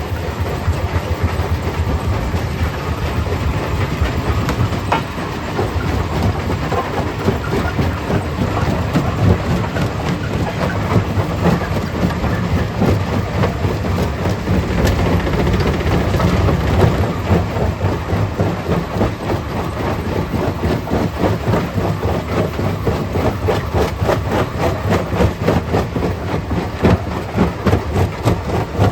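Stone crusher running and breaking rock: a continuous heavy low rumble packed with rapid rattling knocks and clatter.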